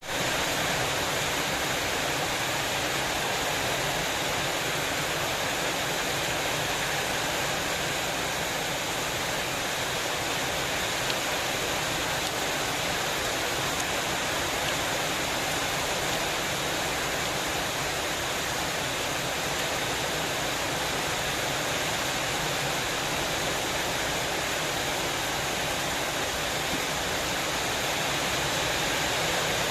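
Rain falling steadily: an even, unbroken hiss that holds level throughout, with no thunder or separate drops standing out.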